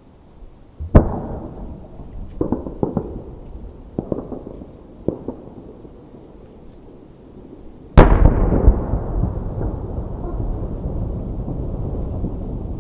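Aerial fireworks shells bursting: a sharp boom about a second in, a few smaller pops over the next four seconds, then the loudest boom about eight seconds in, followed by a long rolling echo that fades slowly.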